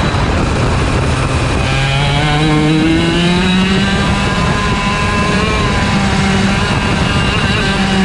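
IAME Leopard 125cc two-stroke kart engine at full race pace, its pitch dropping briefly near the start and then climbing and swinging up and down as the revs fall into corners and rise on acceleration out of them.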